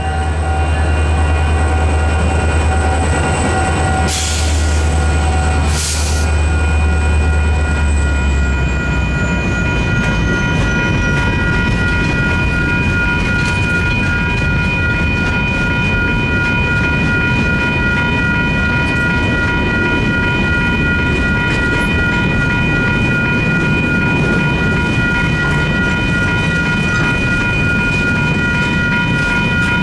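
Two EMD GP40-series diesel locomotives, a GP40M-2 and a GP40-2, rumble past for about the first eight seconds. After that comes the steady rolling clatter of freight cars, covered hoppers, over the crossing. The crossing's electronic bell rings throughout.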